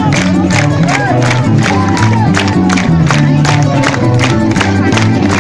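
Live rock-fusion band playing loudly: drums keep a steady, even beat under shifting bass guitar notes, with a wavering melody line on top.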